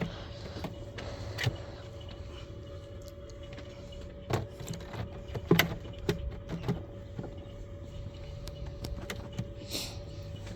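Scattered clicks and knocks of wooden beehive boxes and frames being handled, bunched about four to seven seconds in, over a steady faint hum.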